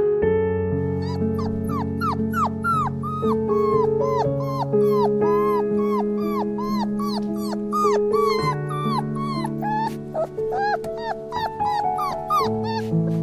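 Newborn puppies whimpering and squeaking over and over, about two short high cries a second, each rising then dropping in pitch, over background music.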